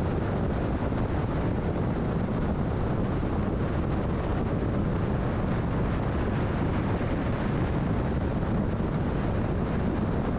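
Steady road noise of a car cruising at freeway speed: tyre and wind noise holding an even level throughout.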